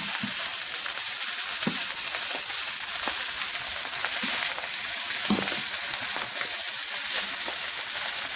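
Fried rice with soy sauce frying in hot oil in a pan, a steady high sizzle, with a few faint knocks of the stirring utensil.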